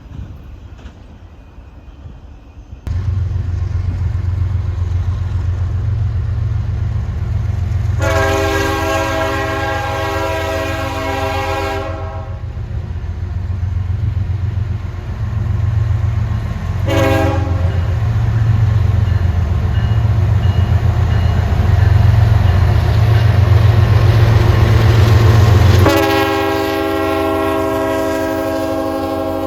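Diesel locomotive running heavily and blowing its air horn. The engine comes in suddenly about three seconds in. The horn gives a long blast of about four seconds, a brief toot a few seconds later, then another long blast near the end that carries on.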